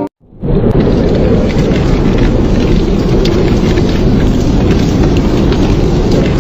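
Storm ambience: a loud, dense, steady rushing noise with faint scattered ticks, like pelting precipitation. It starts just after a brief cut to silence at the very beginning.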